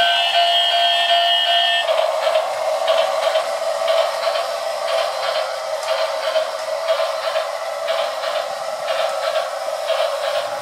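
Miniature electric train sounding a steady whistle of several held tones, which stops about two seconds in. It is followed by the train running: a steady rushing noise with no low end, broken by regular clicks.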